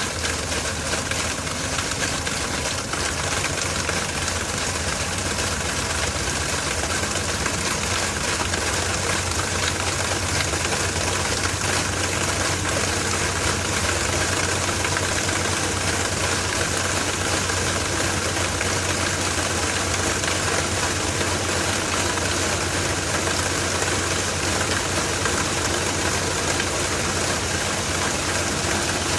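LG TurboDrum top-loading washing machine running with a full load of bedding: a steady low hum under a constant whirring hiss, with no breaks or changes.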